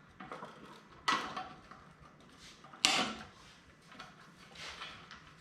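Zip ties being pulled tight on a mini bike's gas tank mount and the tails snipped off: two short sharp noises, about a second in and just before three seconds, with fainter handling noises between and near the end.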